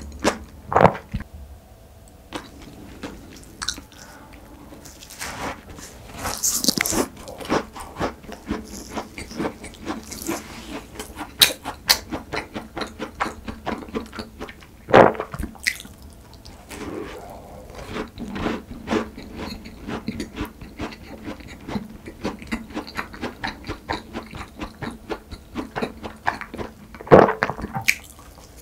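Close-miked chewing and crunching of pastry, with crisp bites into a galette bretonne butter cookie about halfway through and again near the end.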